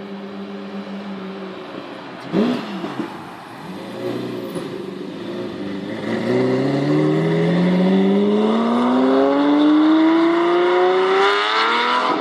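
Lamborghini Murciélago V12 engine: a short sharp rev blip about two seconds in, then a long acceleration with the engine note rising steadily for about six seconds.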